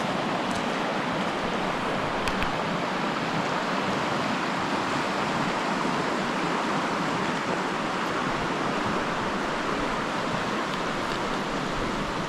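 A creek's water rushing steadily over rocks, an even, unbroken rush.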